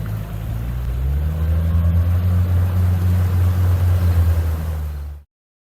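Boat motor running, throttled up about a second in and then holding a steady, higher pitch; the sound cuts off abruptly near the end.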